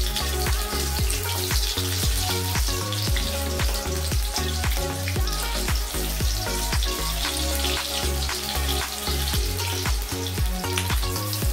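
Batter-coated brinjal slices deep-frying in hot oil in an aluminium wok, a steady sizzle throughout. Background music with a steady beat and bass plays over it.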